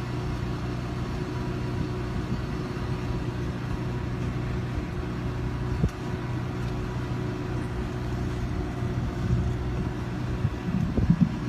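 A steady, low drone of an idling engine, with a few brief louder low knocks near the end.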